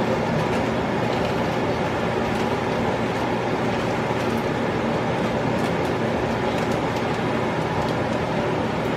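A steady, even droning noise throughout, with a few faint clicks.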